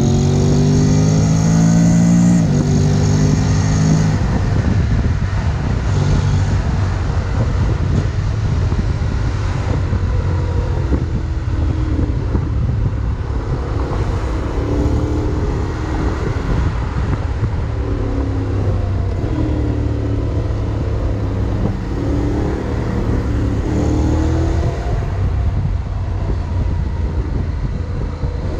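Honda X-ADV 750 parallel-twin engine pulling under acceleration: its note rises and steps down twice in the first few seconds as the gearbox shifts up, then rises again a few times later, over steady wind and road noise.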